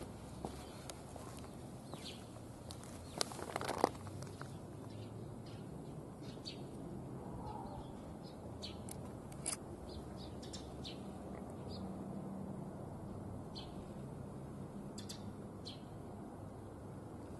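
Small birds chirping in short, scattered calls over a faint steady outdoor hum, with a brief louder scuffle about three to four seconds in.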